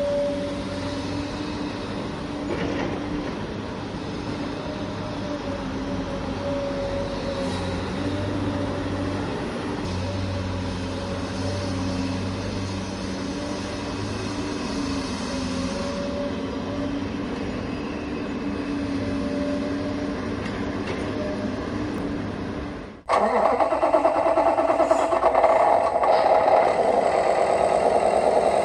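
Steady engine sound of RC construction machines running, holding a low hum. About 23 seconds in it cuts abruptly to a louder, busier engine sound, with a beep near the end.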